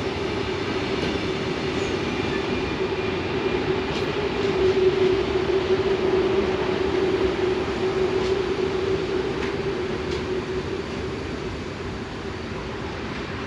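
A train passing slowly, a steady rumble of rolling wheels with faint thin high squealing tones over the first few seconds, loudest around the middle and fading over the last few seconds.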